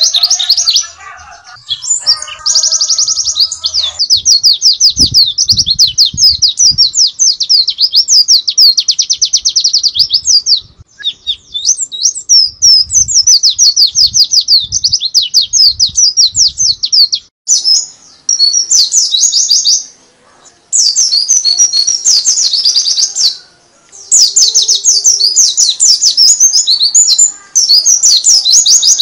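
White-eye (pleci) songbird singing its rapid 'nembak' song: long runs of fast, high chirping notes repeated many times a second, broken by a few brief pauses.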